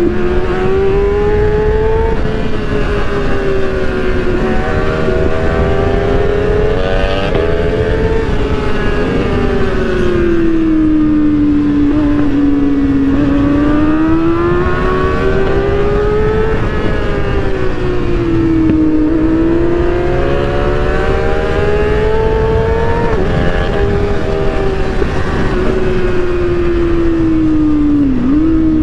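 Honda CBR650R's inline-four engine running at high revs at motorway speed, its note slowly rising and falling in pitch as the throttle is worked, over constant wind rush. Near the end the pitch dips sharply and briefly.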